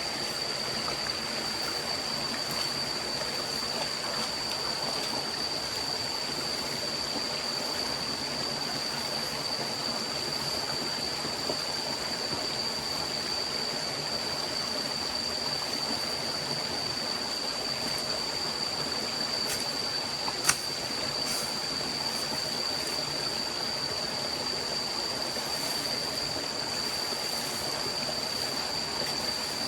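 Forest stream running steadily, with a constant thin high whine under it and one sharp click about two-thirds of the way through.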